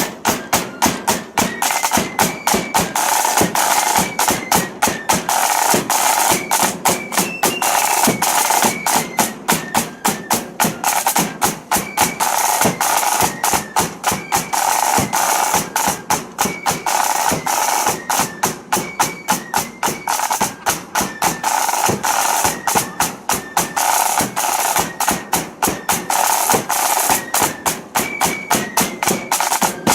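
Blood-and-thunder flute band playing a march: high flutes carry a stepping tune over rapid, continuous snare and bass drumming. The music stops suddenly at the end.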